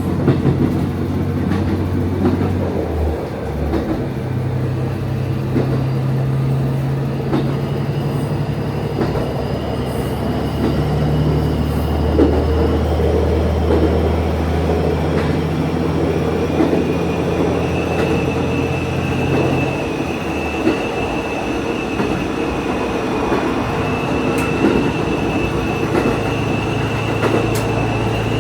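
Diesel railcar running on a non-electrified line, heard from the driver's cab: a steady low engine drone with a thin high whine that rises a little from about eight seconds in and then holds, and a few sharp clicks from the rails. The engine note drops about twenty seconds in.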